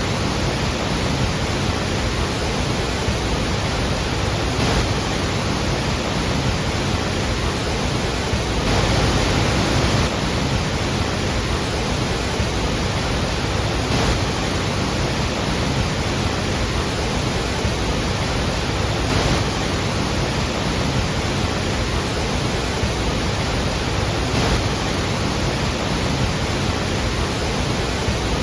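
Iguazú Falls: a huge volume of water pouring down and crashing, making a loud, steady roar. It swells slightly about nine seconds in.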